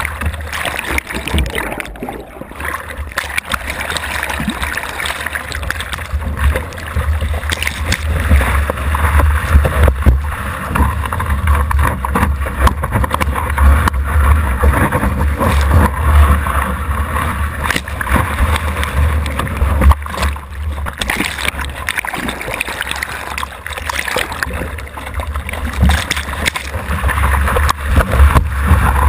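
Ocean water sloshing and splashing around a GoPro in the surf, over a heavy steady low rumble of wind and water buffeting the microphone.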